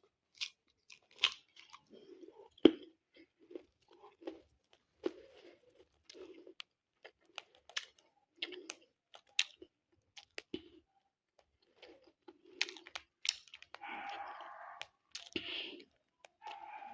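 A parrot crunching and nibbling with its beak: irregular sharp clicks and short crunches throughout, with a brief louder vocal sound about fourteen seconds in.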